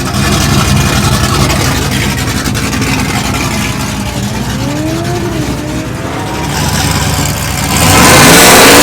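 Drag-racing vehicle engine at full throttle, revving hard, its pitch climbing and dropping as it goes through the gears. It becomes much louder about eight seconds in.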